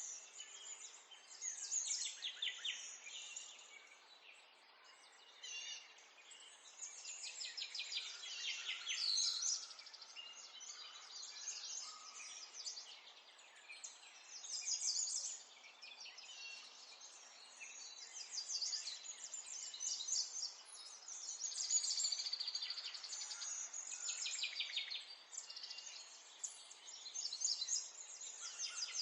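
Several small songbirds singing at once: overlapping fast trills and twittering chirps that rise and fall in waves, over a faint steady background hiss.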